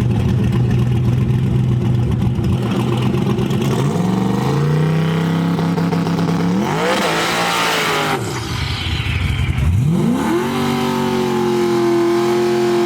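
Drag-racing vehicle's engine revving and accelerating under load: the pitch climbs in steps, drops away near the middle, then climbs sharply again and holds high toward the end.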